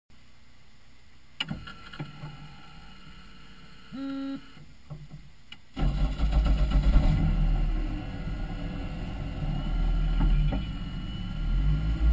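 Quiet at first, with a click and a short beep, then about six seconds in a Caterham R300's un-silenced engine starts up and runs at a loud, low idle.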